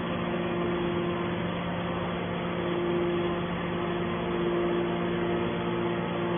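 Scrap metal baler running with a steady machine hum; a higher tone in the hum swells and fades a couple of times.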